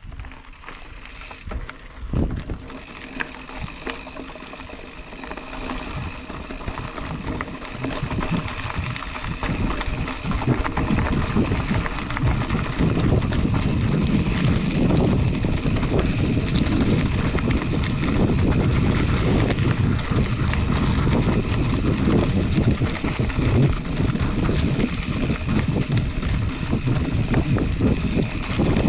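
Specialized Chisel hardtail mountain bike rolling along a trail, with tyre noise, rattling over bumps and wind on the microphone, growing louder over the first ten seconds or so and then holding steady.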